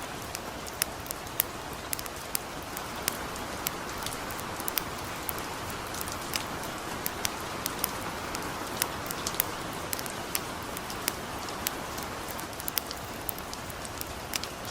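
Steady hiss of gentle rain mixed with a campfire crackling: irregular sharp pops, a few each second, over the even rain noise.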